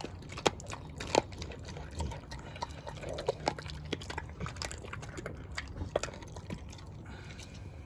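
Dog chewing with wet mouth sounds: many sharp, irregular clicks and smacks.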